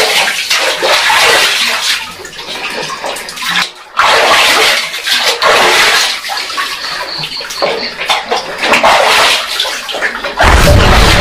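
Spring water pouring and splashing, a loud uneven rush that drops out briefly a little before four seconds. Music with a heavy low beat comes in near the end.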